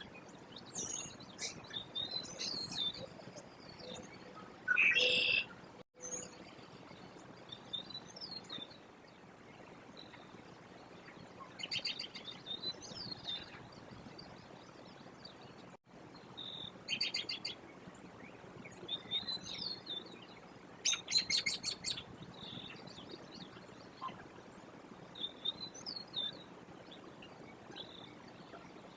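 Birds chirping and calling in short high notes throughout, with a few rapid trilled calls lasting about a second each, over faint outdoor background noise.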